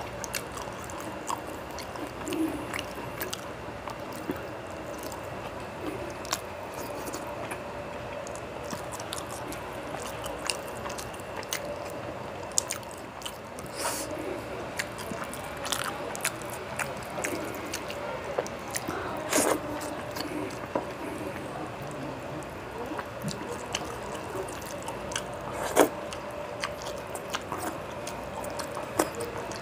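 Close-miked wet chewing and lip-smacking of a person eating rice and curry by hand, with frequent short mouth clicks and a few sharper smacks, over a faint steady hum.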